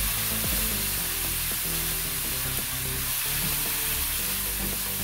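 Ground pork, onions and sliced hot dogs sizzling in a hot metal wok while a wooden spatula stirs them, with background music underneath.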